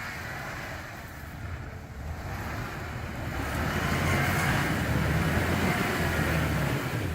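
Dodge Ram Power Wagon pickup's engine working hard under load while the truck is stuck in frozen swamp muck, with a rushing noise over it. It grows louder about two seconds in, stays loud over the last few seconds, then cuts off suddenly.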